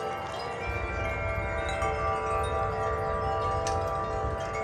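Several tuned metal wind chimes ringing in the wind: many overlapping tones that hang on, with a few fresh strikes. A low rumble of wind runs underneath.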